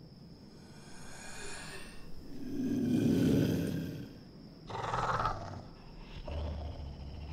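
Deep animal-like roar that swells to its loudest about three seconds in, followed by three shorter growling grunts.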